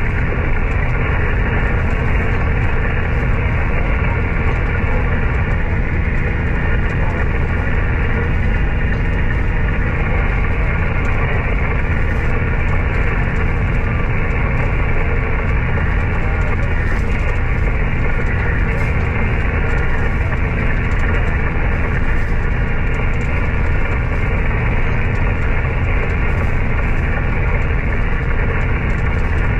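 Steady hiss and rumble of static from a shortwave amateur radio receiver on an open frequency with no station transmitting, cut off above about 3 kHz by the receiver's narrow voice passband.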